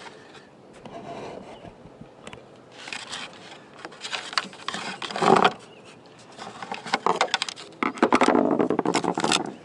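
Antenna cable scraping and rubbing as it is fed by hand through a hole in an RV roof, with scattered clicks and a louder stretch of scraping near the end.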